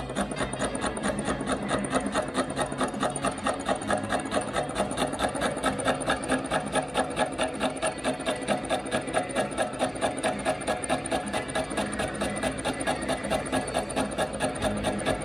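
Portable line-boring machine taking the first cut through the weld build-up in a Scania truck's front axle pin bore, with a steady rhythmic chatter of about four or five beats a second.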